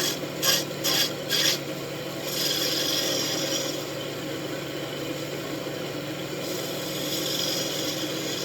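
Wood lathe running with a steady hum while a turning tool cuts into the spinning wooden wand blank: four quick short cuts in the first second and a half, then longer, steady scraping cuts.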